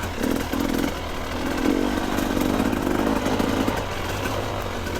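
Two-stroke dirt bike engine idling steadily in neutral.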